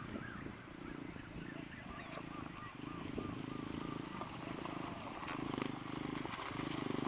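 Motorcycle engine running steadily at idle, with a run of short, repeated chirping calls over it. Near the end the engine gets louder.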